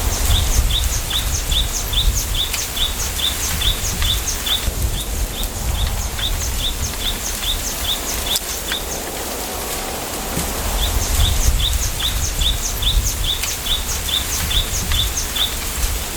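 A small bird repeating a short, high chirp about four times a second in long runs, with two brief pauses. Under it is a steady low rumble of wind.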